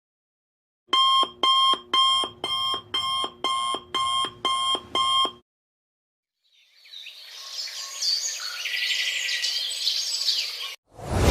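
Alarm clock beeping: about ten short electronic beeps, a little over two a second, the first few louder. After a short pause, a separate hiss swells up and is cut off near the end.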